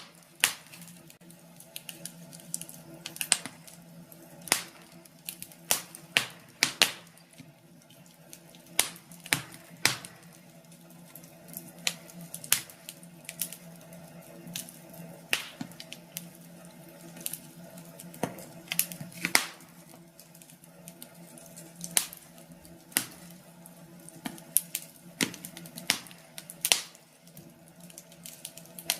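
Wood fire crackling in a fireplace: irregular sharp pops and snaps, some louder than others, over a faint steady hum.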